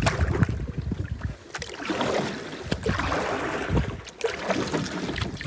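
Solo canoe's hull scraping and bumping as it is worked free of an obstacle it has grounded on, in irregular rubbing bursts.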